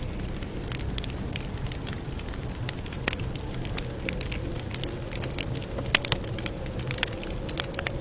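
Campfire crackling, with frequent sharp pops over a steady low rumble of burning wood. The loudest pops come about six seconds in.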